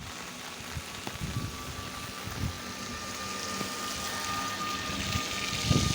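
Steady rain falling with a wash of water noise. A thin steady whine comes in about a second in, and low irregular rumbles grow louder near the end.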